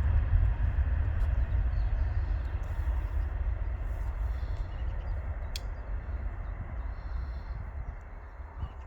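Jet engines of a Boeing 737 rumbling, a deep steady roar that fades gradually as the aircraft moves away. A single sharp click sounds about halfway through.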